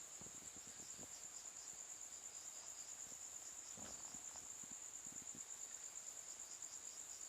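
Night crickets chirping: a steady, high, fast-pulsing trill, faint.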